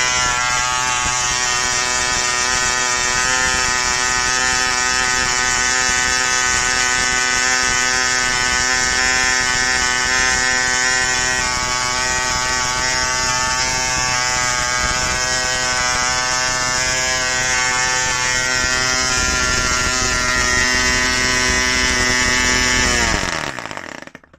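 Vintage Frog 500 glow-plug model engine running flat out at a steady pitch, a loud, harsh cackle. Near the end it winds down quickly, the pitch falling, and stops.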